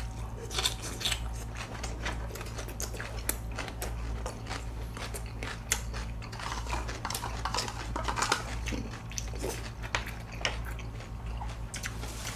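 Close-miked chewing and biting of food, with wet mouth clicks and crisp crunches, the first from a bite of yellow pickled radish (danmuji). Occasional light clicks of chopsticks and a spoon on plastic containers are mixed in.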